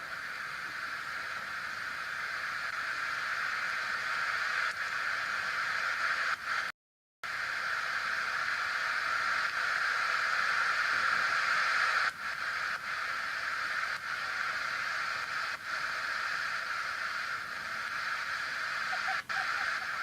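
Steady hissing noise with no clear pitch, cut off for about half a second some seven seconds in.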